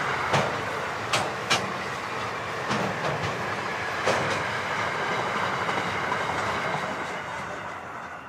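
Container wagons of an intermodal freight train rolling past at speed: steel wheels running on the rails with a steady rumble and several sharp clacks. The noise fades near the end as the last wagon goes by.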